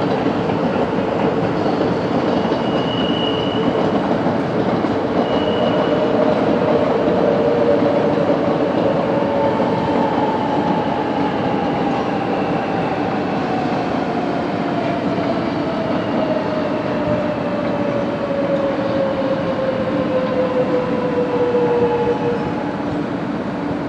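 Shinkansen 500 series bullet train running through the station with a loud, steady rumble of wheels on rail. Two short high tones sound about three and five seconds in. A motor whine then slides steadily down in pitch for about twelve seconds as the train slows.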